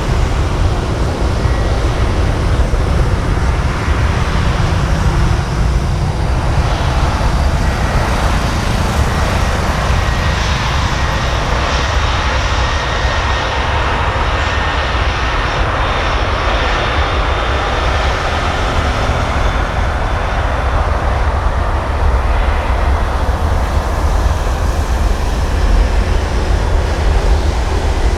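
Jet airliner engines running, a loud, continuous rushing noise over a heavy low rumble that is fullest around the middle and eases slightly near the end.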